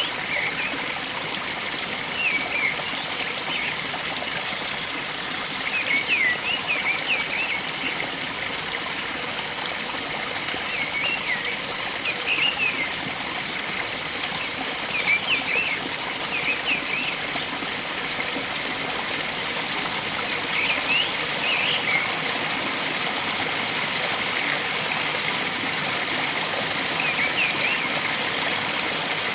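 Flowing water running steadily, with a bird giving short chirping calls in quick little clusters every few seconds.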